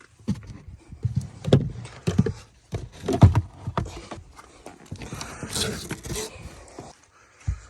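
A run of irregular knocks and thumps, with a stretch of rustling a little past the middle.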